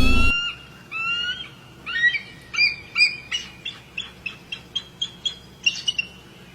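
A bird calling: two rising whistled notes about a second apart, then a quickening series of short, sharp chirps.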